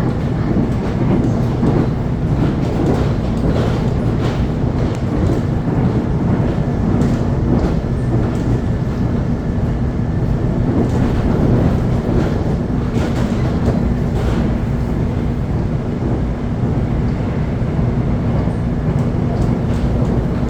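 Electric commuter train running steadily along the rails: a continuous low rumble and hum with scattered clicks from the wheels on the track.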